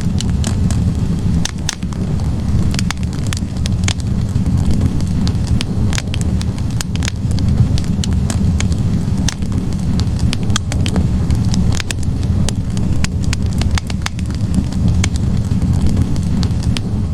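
Wood fire burning in a fireplace: a steady low rumble of flames with frequent, irregular crackles and pops from the logs.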